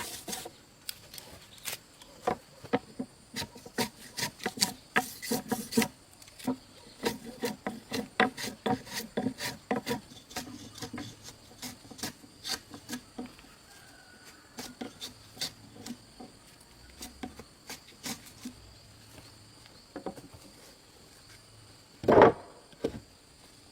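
A hand tool rubbing and rasping on wood in many quick, irregular strokes, busiest in the first ten seconds and sparser after. About 22 seconds in there is one loud knock of wood on wood.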